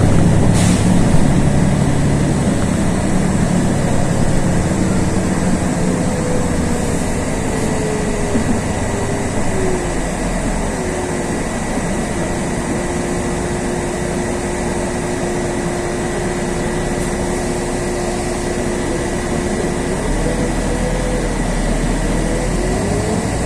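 LiAZ 6213.22 articulated city bus running, heard from a ride in the bus: a steady low engine hum with a drivetrain whine that falls, holds level for several seconds, then climbs again near the end as the engine hum grows louder.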